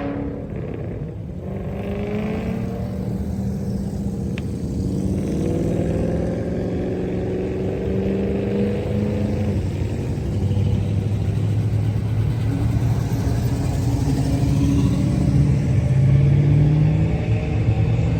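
Car engine running, its pitch sliding up and down, and louder in the last few seconds.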